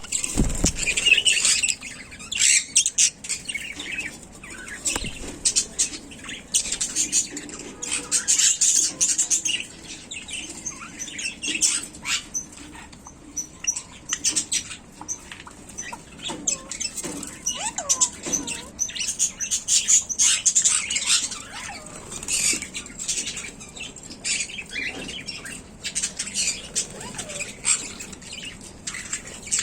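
Small animals moving about: rapid, irregular scratching, rustling and fluttering, with occasional short chirps.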